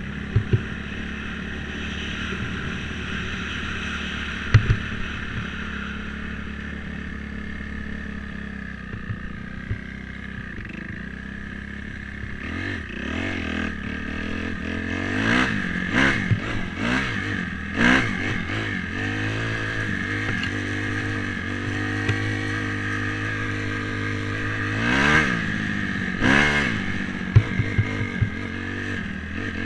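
Dirt bike engine running steadily, then revved up and down repeatedly in the second half as the throttle is blipped. A few sharp knocks come near the start and near the end.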